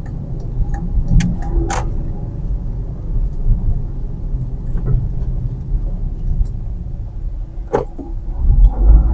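Steady low rumble of a car driving, heard from inside the cabin, with a few short clicks; the rumble grows louder near the end.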